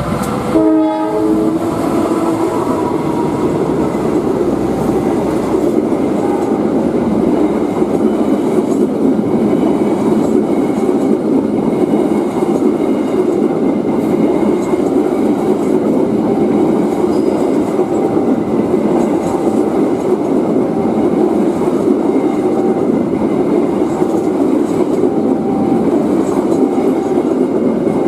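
A train locomotive's horn gives a short blast about a second in. It is followed by a train running past, with a steady rumble and the clatter of wheels on the rails.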